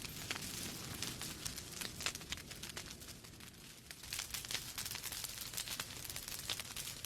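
Wood fire burning in a fireplace, crackling with many small irregular pops over a low steady rumble of the flames; the pops come thickest in the first two seconds and again in the last three.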